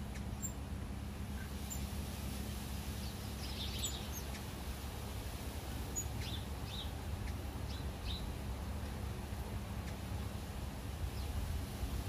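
Short, high bird chirps scattered over a steady low rumble: a cluster about four seconds in and several more between six and eight seconds.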